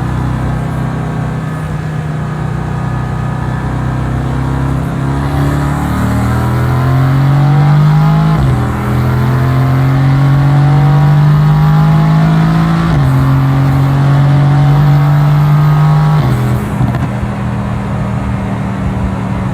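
Mercedes-AMG GT S twin-turbo V8 pulling hard under acceleration, its note rising slowly through the gears with three quick upshifts, each a sudden drop in pitch, then settling to a steady cruise near the end.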